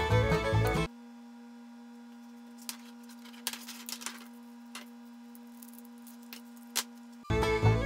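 Background music cuts off about a second in and returns near the end. Between, a faint steady hum, and a few light clicks and rattles as the plastic links of a cable drag chain are handled.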